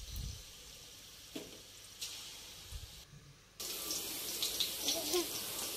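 Minced mutton (keema) balls frying in shallow oil in a steel pot: a soft steady sizzle. It drops out briefly about three seconds in, then comes back louder with faint crackling.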